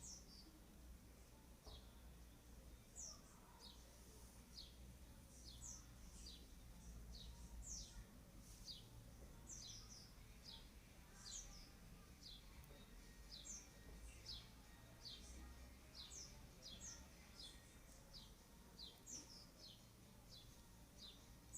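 Faint bird chirping: many short, high chirps, each sliding down in pitch, repeating irregularly over quiet room tone.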